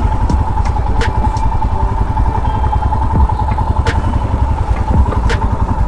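Royal Enfield Himalayan's 411 cc single-cylinder engine running at low speed, a steady low rumble with a thin steady whine over it and a few sharp clicks.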